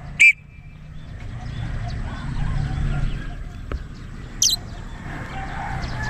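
Two short, shrill bird calls, a loud one just after the start and a higher, fainter one about four and a half seconds in, over a steady low rumble.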